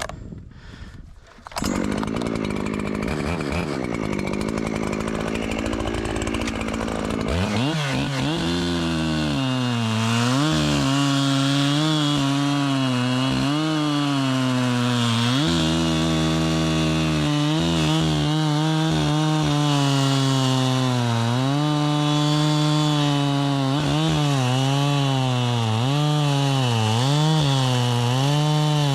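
Echo two-stroke chainsaw running at high revs, cutting through a firewood round; its pitch dips and recovers again and again as the chain loads in the wood. The saw comes in loudly about two seconds in and settles into the steady cut from about seven seconds.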